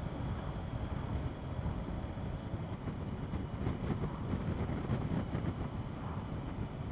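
CF Moto 800MT Explore's parallel-twin engine running steadily at road speed, mixed with wind and road noise.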